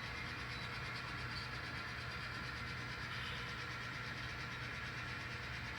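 N scale model train running along the layout track, a steady even whir of the small locomotive motor and wheels.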